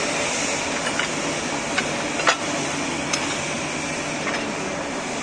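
Steady industrial background noise, a constant hiss like ventilation, with about five short sharp clicks or taps scattered through it, the loudest a little over two seconds in.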